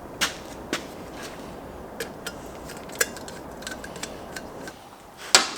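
Small metal tools and parts clinking and clicking against a hard surface as they are handled, in scattered light knocks with a louder cluster near the end.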